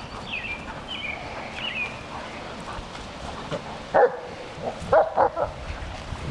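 Puppies at play: high-pitched whining yips in the first couple of seconds, then a few short, sharp barks about four and five seconds in.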